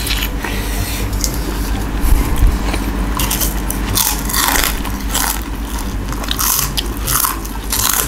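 Close-up mukbang eating: biting and chewing of sambal-coated fruit and crunchy kerupuk pasir crackers, with wet mouth sounds. Irregular bursts of crunching come thicker in the second half.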